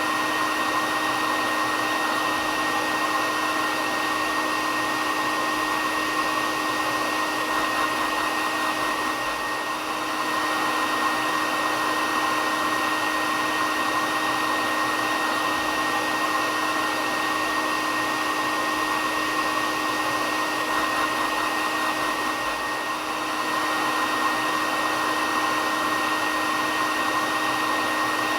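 Hair dryer running steadily: a continuous rushing of air over a steady motor whine and a lower hum, dipping slightly in level twice.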